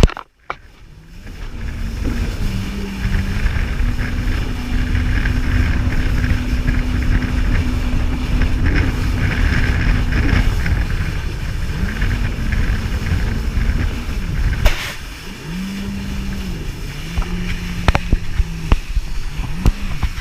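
Jet ski engine running under way. After a brief dropout, its tone holds steady, then its pitch dips and rises as the throttle changes, over heavy low rushing noise. A few sharp knocks come near the end.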